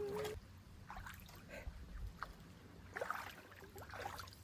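Faint, scattered splashes and sloshing of creek water as a dog plays in the shallows with a wading man.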